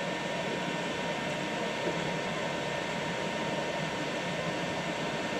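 Steady whir of a 3D printer's cooling fans with a faint constant whine, the hotend at its 220-degree extrusion temperature.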